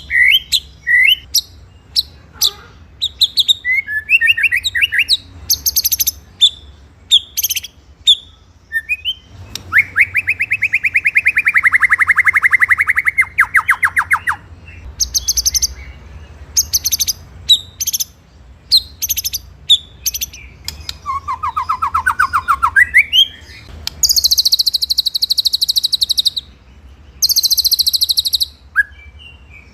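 White-rumped shama (murai batu) singing: a varied run of clear whistles and quick sharp notes, broken by long rapid trills, the rolling 'ngeroll' of its song. One long trill starts about ten seconds in, and fast high trills fill the last few seconds.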